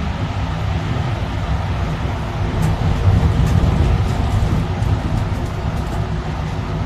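Steady low rumble of a moving vehicle, with light sharp clicks and rattles from about two and a half seconds in.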